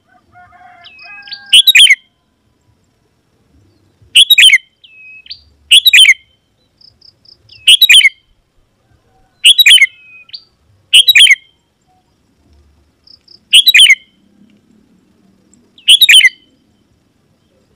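Sooty-headed bulbul (kutilang) calling: a series of short, loud, harsh phrases, roughly one every two seconds, with faint thin high notes between them.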